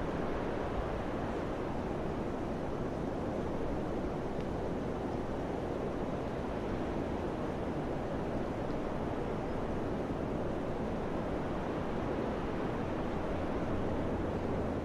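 Steady wind blowing: an even rushing noise with a deep low rumble beneath it.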